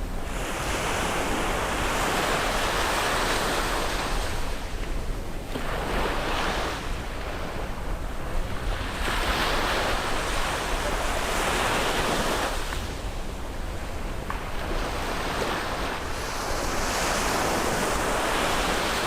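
Sea waves breaking and washing up on a beach, the rush swelling and ebbing about four times.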